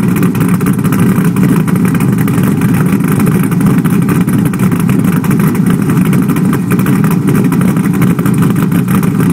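Exhaust of a 408 ci LQ9 stroker V8 running steadily through Kooks stepped headers, 3-inch true dual pipes with an X-pipe and Dynomax Bullet mufflers, a loud, deep, pulsing note with no revving.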